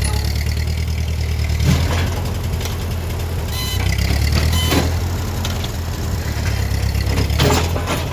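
Engine running steadily, with a few brief knocks or clatters over it, about three in all.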